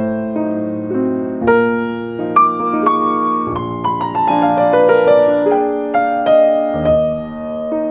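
Background piano music: slow, gentle chords and a melody with a descending run of notes in the middle.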